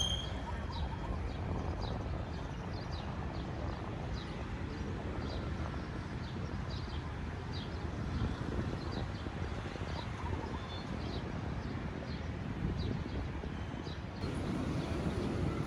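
City street ambience: a steady low traffic rumble with many short high chirps scattered throughout. The rumble grows louder about a second before the end.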